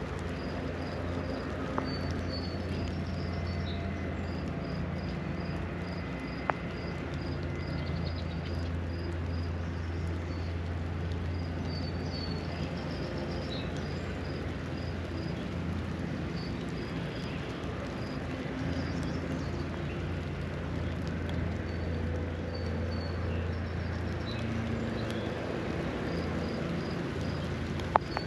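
Outdoor ambience in light spring rain: a steady low rumble underneath, with small birds chirping, including runs of quick, high, evenly repeated notes. A few sharp single ticks stand out.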